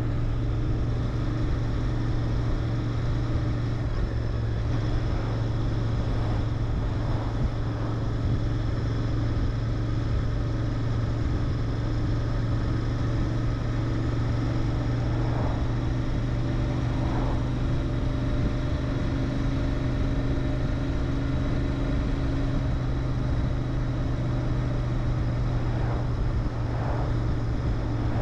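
Royal Enfield Interceptor 650's parallel-twin engine through its stock mufflers, running at a steady engine speed while riding.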